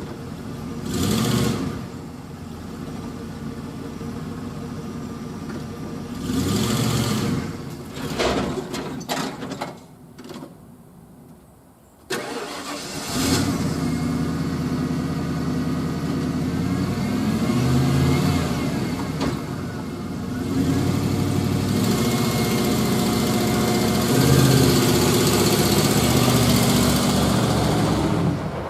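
A Ford F-150 pickup's engine running rough, with several blips of throttle. About ten seconds in it dies away, and about two seconds later it catches again. It keeps running with a couple of longer revs. It sounds terrible, a poor running that the owner traces to the truck's engine control module.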